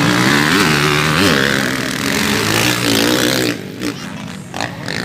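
Motocross dirt bike engines revving, with quick rises in pitch as the throttle is blipped, then falling off about three and a half seconds in.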